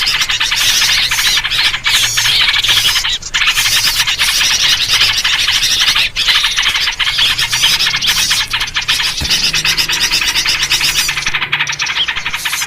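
A dense chorus of many small songbirds chirping and chattering rapidly without pause, the kind of busy mixed-bird recording used as a lure to draw wild birds in. A faint low hum runs underneath.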